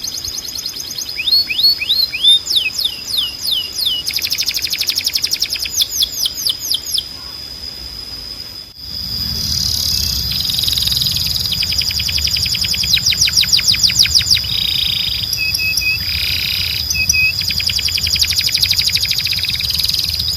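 Domestic canary singing: fast trills of repeated notes and quick downward-sweeping whistles over a steady high tone. About nine seconds in, the song briefly drops away and resumes with a low hum underneath.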